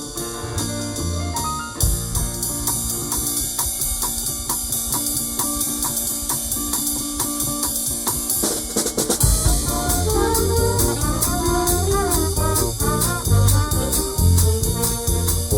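Live band playing an instrumental passage: drum kit keeping a steady beat with bass, and a drum fill about nine seconds in. After the fill, brass horns come in with the melody over a heavier bass line.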